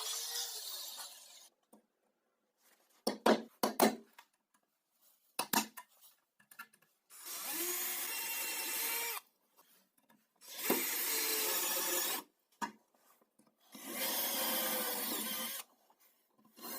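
Woodworking on wood: three separate bursts of rasping noise, each about two seconds long, with a few sharp knocks of wood before them.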